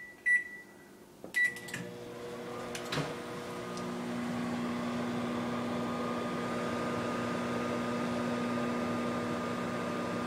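Microwave oven keypad beeping three times as the cooking time is entered, then the oven starting and running with a steady hum, with a single click a few seconds in.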